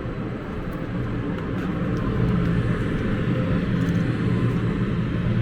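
Steady low rumble of wind on the microphone and road noise while cycling, growing louder about two seconds in.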